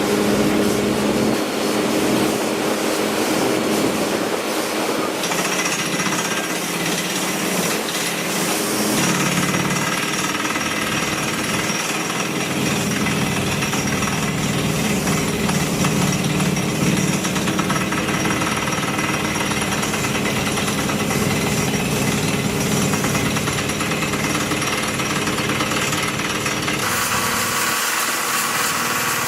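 Jackhammer running continuously, a rapid steady hammering.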